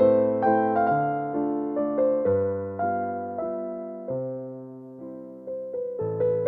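Background music: slow, gentle piano (electric piano) playing single notes and chords that sound and fade one after another.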